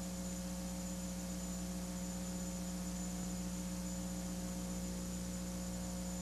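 Steady electrical mains hum with a faint high whine and tape hiss, unchanging throughout, with no other sound on the track.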